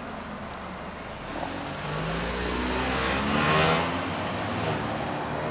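A motor vehicle driving past close by: engine and tyre noise build to a peak about three and a half seconds in and then fade as it moves away, its engine pitch dropping as it passes.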